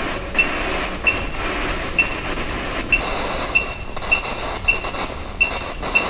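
Short, high electronic chirps repeating about twice a second over a steady hiss of static from ghost-hunting electronics.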